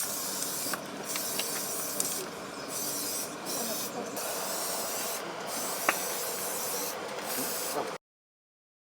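Steady hissing noise with a few faint clicks, cutting off abruptly near the end.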